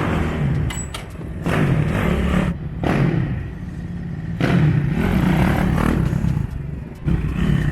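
Dirt bike engine revving in several bursts of throttle, the pitch climbing and dropping back between them.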